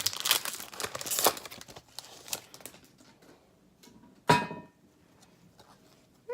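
Foil trading-card pack wrapper crinkling as it is torn open and handled for the first two seconds or so, then quieter, with one short sharp sound about four seconds in.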